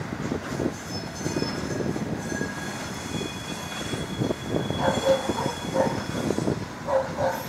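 Train rolling slowly on the rails, with wheel rumble and knocks and a thin, steady high wheel squeal held for a couple of seconds mid-way. From about five seconds in, a dog barks several times.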